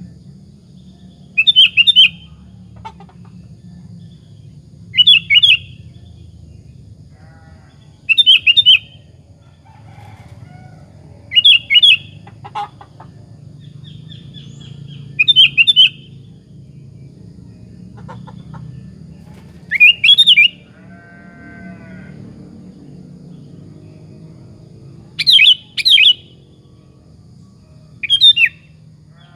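Sooty-headed bulbul (kutilang) singing. Short, loud phrases come roughly every three to four seconds, about eight in all, over a faint low hum.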